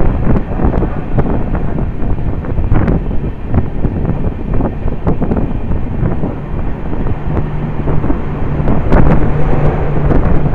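Passenger train running through a station at speed, with heavy wind rushing over the microphone at an open coach door and wheels knocking and clattering over the rails. A low steady hum comes in about six seconds in.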